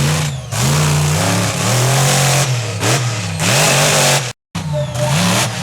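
Monster truck engine revving hard, its pitch rising and falling again and again. The sound cuts out completely for a moment about four seconds in, then resumes.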